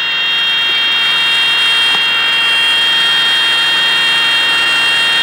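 A cockpit warning horn sounds steadily in a twin-engine trainer over the engine and cabin noise. It is the stall warning, the first sign of a stall in a Vmc demonstration flown with one engine failed.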